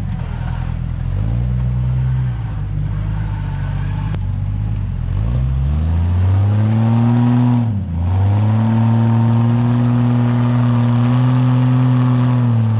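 Off-road vehicle engine running at uneven low revs, then revved up hard about five seconds in and held at steady high revs. The revs dip sharply for a moment near eight seconds, then come straight back.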